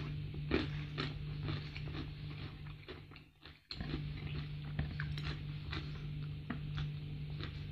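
A person chewing a mouthful of raw leafy greens, with many small crisp crunching clicks over a steady low hum. The sound drops out briefly about three and a half seconds in.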